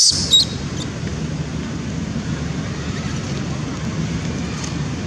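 A baby macaque gives a last couple of shrill, high-pitched squeals in the first half-second. Then a steady low rumble of wind on the microphone takes over.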